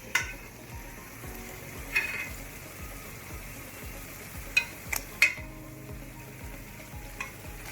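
Onions and chicken frying in hot oil in a cooking pot, sizzling steadily, with a few sharp metal clinks of a spoon against the pot: one at the start, one about two seconds in, and three in quick succession about five seconds in.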